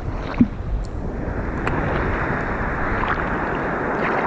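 Rough, stormy sea: steady churning of waves and water with wind buffeting the microphone, and one brief knock about half a second in.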